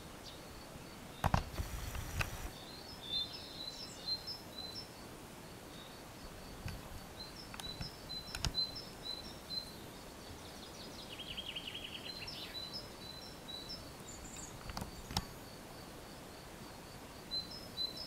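Birds calling in short high chirps throughout, with a quick trill about eleven seconds in. A loud burst of rustling or knocking just over a second in, and single sharp knocks about halfway and again later.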